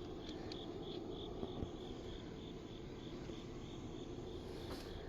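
A cricket chirping steadily in short, even high-pitched chirps, about three a second, with a faint click near the end.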